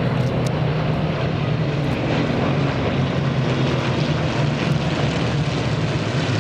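Rolls-Royce Merlin V12 piston engines of World War II fighters flying past, a loud steady propeller drone.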